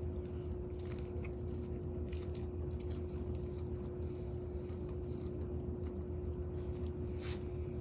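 A person chewing barbecue meat close to the microphone, with a few short mouth clicks, over a steady low hum.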